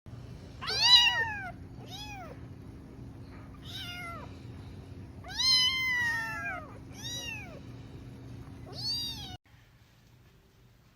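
Domestic cat meowing about six times, each meow rising and then falling in pitch; the first is the loudest and the one around the middle is the longest. The sound cuts off abruptly near the end.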